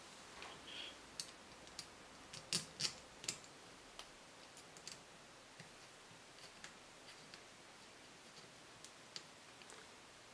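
Scattered light clicks and taps of small parts and tools being handled on a workbench. Three sharper clicks come close together about two and a half to three seconds in.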